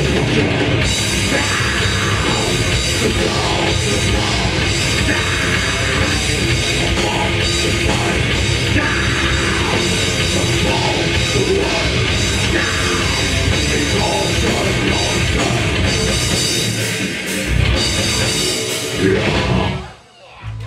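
Death metal band playing live: heavily distorted guitars, bass and pounding drum kit, cutting off abruptly at the end of the song near the end.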